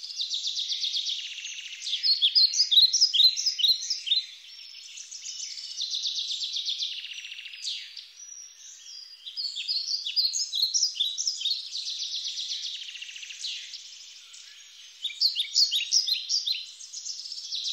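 Songbirds singing: phrases of fast trills alternate with quick clusters of short, high notes, repeating several times.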